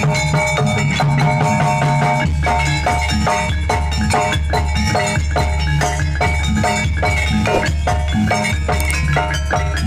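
Jaranan gamelan music: struck metal mallet instruments playing a busy, rhythmic melody over a steady pulsing drum beat.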